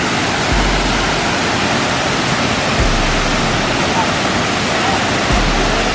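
Waterfall: a steady, dense noise of falling water, with a deep low rumble coming and going underneath.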